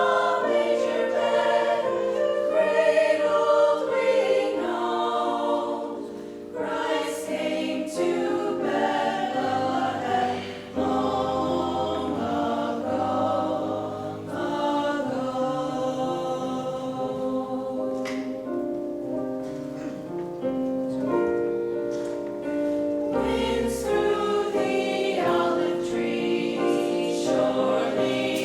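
A choir singing in chordal harmony, with voices holding and changing chords.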